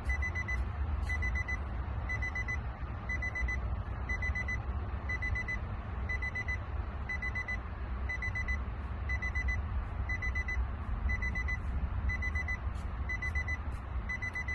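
Car warning chime beeping steadily, about two high beeps a second, over the low rumble of the Nissan's engine idling after a throttle body replacement, the idle still uneven.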